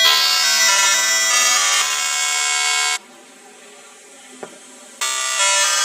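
A loud, buzzy, horn-like sustained tone rich in overtones, shifting pitch a few times. It breaks off for about two seconds, three seconds in, then starts again.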